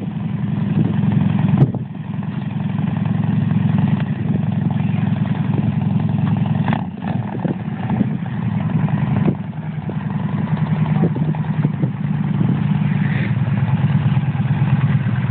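Motorcycle engine idling steadily, with a few short clicks over it.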